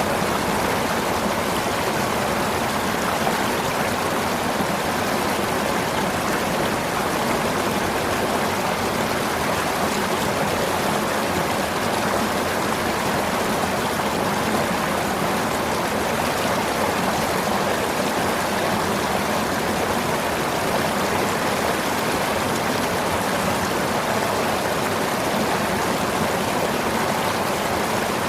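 River water flowing, a steady rushing that holds an even level throughout.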